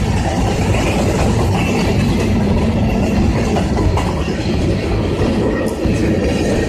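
CSX freight train rolling past, a loud, steady rumble of wheels on rail with a few sharp clicks.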